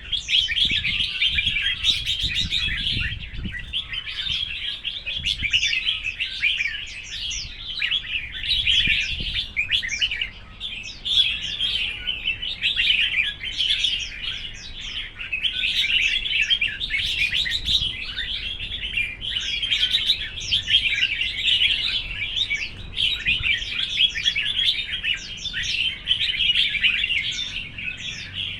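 Red-whiskered bulbuls singing against each other: an unbroken, dense run of quick, bright chirping phrases.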